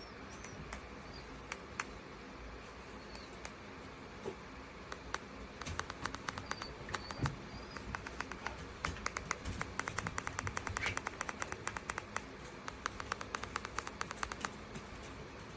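Ceiling fan running with a steady low whir, with a long run of rapid light clicks through the middle and a few short high chirps.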